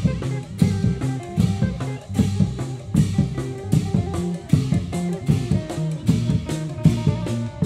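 Isan procession band music: a drum kit keeps a steady driving beat with bass drum, over a bass line and a plucked string melody.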